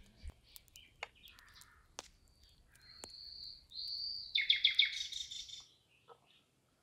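Birds chirping and whistling: a drawn-out whistled note in the middle, then a quick run of chirps, the loudest part, just before the end. A few faint sharp clicks in the first half.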